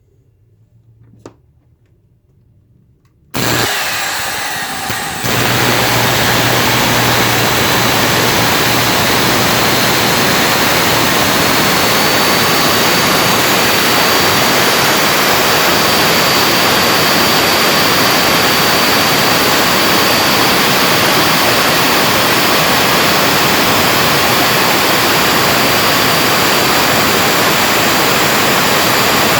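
Bare vacuum cleaner motor switched on about three seconds in, then running flat out with a loud, steady rush and a faint high whine. A further jump in level comes about two seconds later. The motor has lost power and sparks heavily at its carbon brushes because of a crusted commutator.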